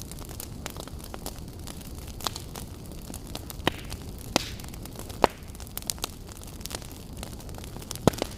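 Wood fire burning in a fireplace: a steady low rumble and hiss with irregular sharp crackles and pops, a few louder snaps scattered through.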